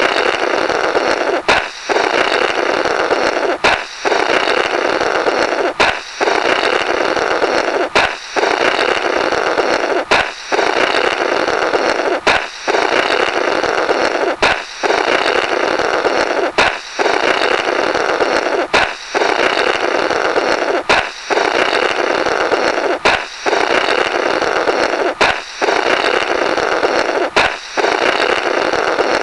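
Cartoon 'Blorrrt' sound effect: a balloon pops with a sharp crack, then someone blows through the rubber remnants. It repeats in a loop about every two seconds, some thirteen times.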